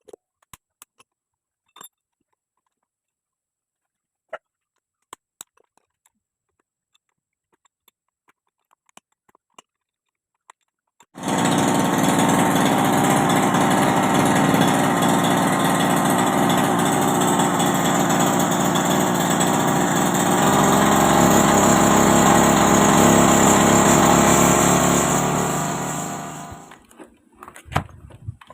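Grass cutter's small engine catching suddenly about eleven seconds in, after a few faint clicks, and running steadily and loudly for about fifteen seconds before dying away. The machine has a fault that makes it act as if it were in gear when started, so the shaft turns as soon as the engine runs.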